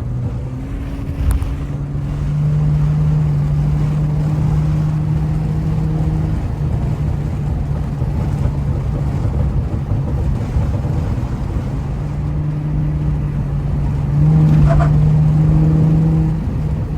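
Honda Accord V6 engine and road noise heard from inside the car while driving: a constant low road rumble with a steady engine drone that swells twice, louder for a couple of seconds near the end.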